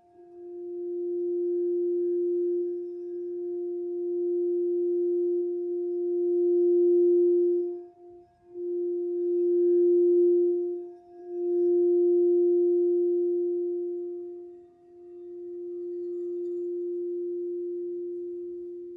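Heart-chakra singing bowl sounding one steady, pure tone that swells and dips, dropping out briefly about 8 and 11 seconds in. After a dip near 15 seconds it comes back softer and slowly fades.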